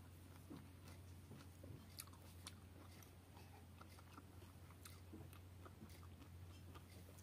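Faint chewing and biting of fresh pineapple chunks, a scatter of small wet clicks, over a steady low hum.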